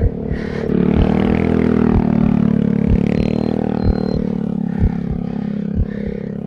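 A motor vehicle's engine running steadily, its pitch shifting a little about a second in, with a low thump repeating about once a second.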